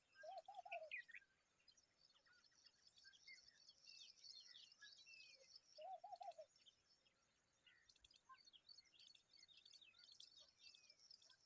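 Faint bird chirping, many short high calls overlapping throughout. Twice, near the start and about six seconds in, a short, lower, wavering call of about half a second stands out.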